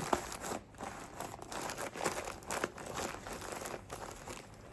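Plastic packaging crinkling and rustling as a pack of socks is handled, in a rapid irregular string of small crackles.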